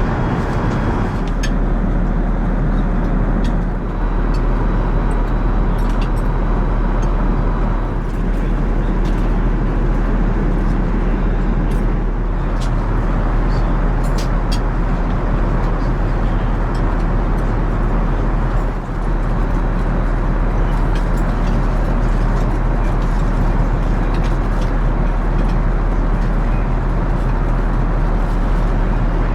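Steady cabin noise inside an Airbus A380 airliner: the even rush of airflow and jet engines, heaviest in the low end, with a few faint ticks.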